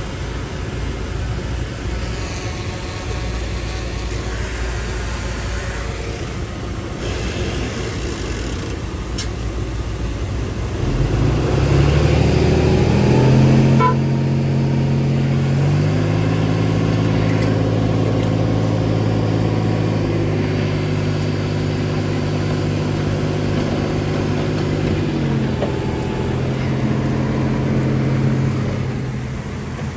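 Heavy diesel engine of earthmoving machinery, running at a low rumble, then revving up about eleven seconds in. It runs louder under load for the rest of the time, its pitch shifting in steps a few times and easing off near the end.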